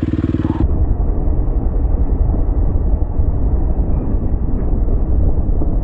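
Heavy, steady low rumble of wind buffeting the microphone, with the high end muffled away. It starts abruptly under a second in, cutting off a dirt bike engine running and a voice.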